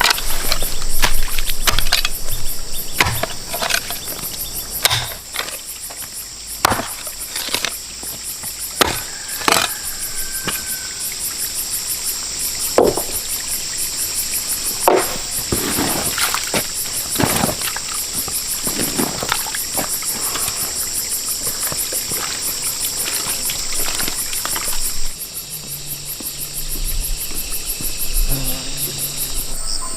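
A chorus of insects, high-pitched and rapidly pulsing, part of which drops out near the end. Over it come irregular knocks and clatter, as of tools or material being handled.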